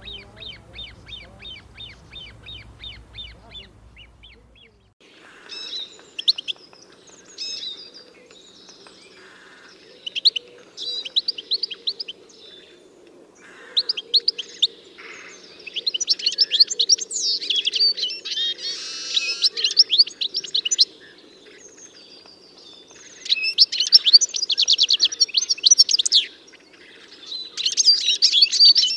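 Songbirds singing: first a rapid, even series of repeated high notes, about six a second. Then, after an abrupt change about five seconds in, varied chirps and fast trills that grow busier and louder in the second half.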